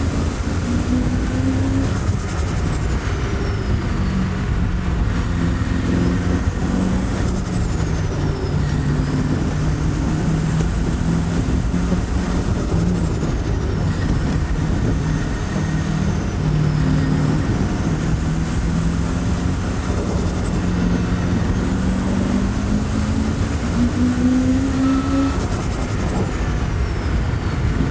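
Turbocharged TVR Chimaera V8 pulling hard, held in third gear, its engine note sagging and rising. Over it a high turbo whistle rises and falls about five times as the boost builds and drops.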